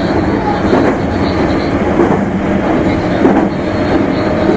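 Meitetsu limited express electric train running along the line: a steady rumble of wheels on rail, with a sharp knock roughly every second as the wheels pass over rail joints, and a faint steady whine near the end.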